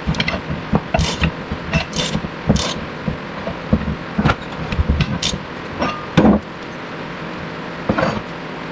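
Irregular metal clanks and knocks of hand tools working a bearing splitter onto the inner race of a car's front wheel bearing.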